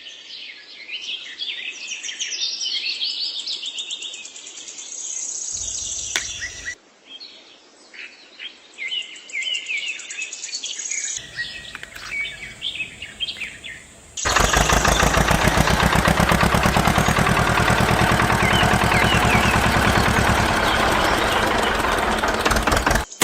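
Birds chirping and calling. About fourteen seconds in, an engine comes in suddenly and runs steadily with a fast, even beat, much louder than the birds.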